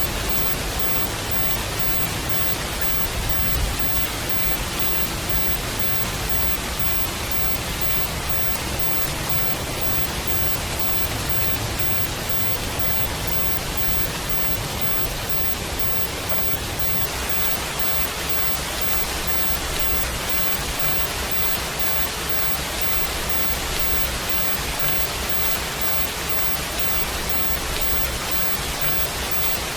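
Steady rain, an even hiss spread across all pitches, used as the masking track of a subliminal recording. There is one brief low thump about three and a half seconds in.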